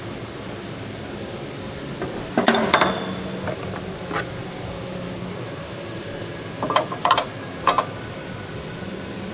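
Metal tools and parts clinking and knocking, in two short clusters of sharp strikes, one a little before the middle and one later on, over a steady background hum.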